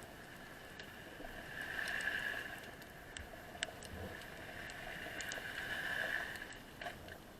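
Underwater ambience recorded by a diver's camera: a steady hiss that swells twice, about four seconds apart, with scattered sharp clicks.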